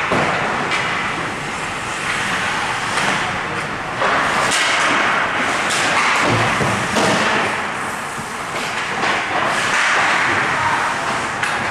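Ice hockey rink noise: a hiss of skating and play, with scattered sharp thuds of pucks and sticks and indistinct voices.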